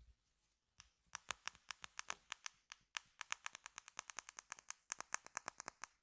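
A small object scraped over a microphone in a fast, even run of sharp clicking strokes, about eight a second, starting about a second in.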